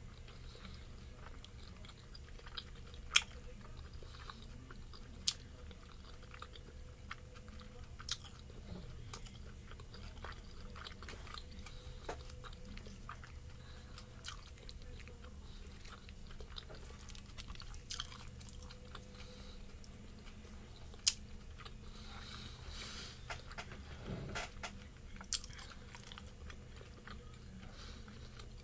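Close-up chewing of pan-fried chicken dumplings, with wet mouth sounds and scattered small clicks. A few sharp clicks stand out, the loudest about three seconds in and again about twenty-one seconds in.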